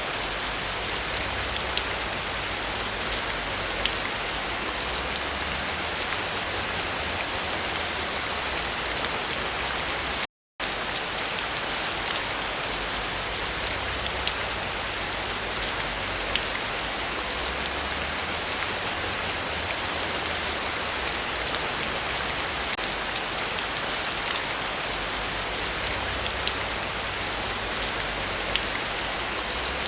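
Heavy rain falling steadily, a dense hiss with scattered ticks of individual drops. The sound cuts out completely for a split second about ten seconds in.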